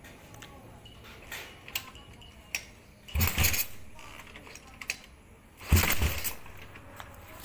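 Motorcycle with an aftermarket BMS muffler idling, with two short throttle blips about three and six seconds in, plus a few sharp clicks.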